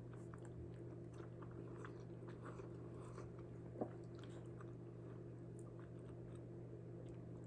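Faint chewing of a mouthful of cheese-covered bean burrito, with soft wet mouth clicks throughout and one slightly sharper click nearly four seconds in, over a steady low hum.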